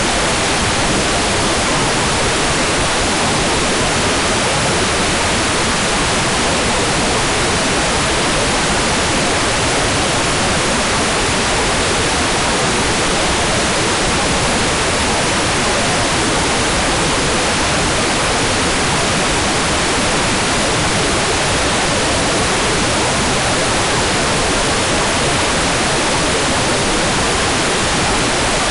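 Hair dryer running steadily as a sleep white-noise track: an even, constant rush of airflow with no change in level.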